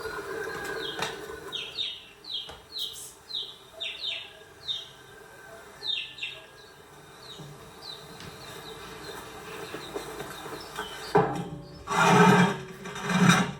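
A bird calling a run of short, falling chirps, about two a second, for several seconds. Near the end come two louder, rough sounds.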